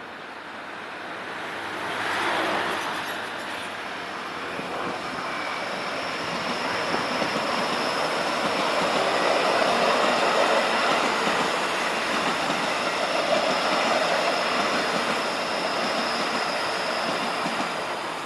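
A train passing at speed: wheels rolling on the rails with a thin high whine over the noise. It swells briefly about two seconds in, then grows to a long loud stretch and starts to fade near the end.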